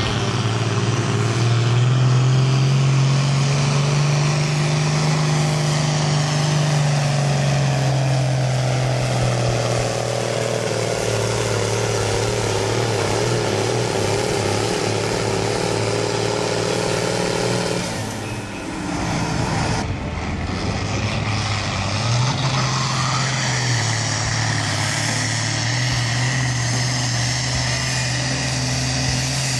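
Farm tractor engine working hard under load while pulling a sled, running loud and steady with its pitch rising and sagging. It breaks off briefly about two-thirds of the way through, then picks up again.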